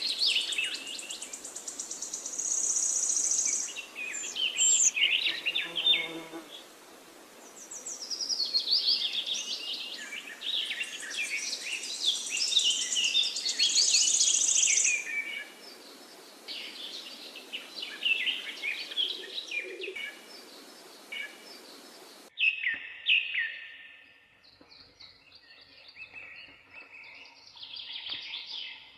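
Several songbirds singing in a forest: fast high trills and overlapping chirps over a steady background hiss. About two-thirds of the way through, the hiss drops away abruptly and sparser, quieter bird calls carry on.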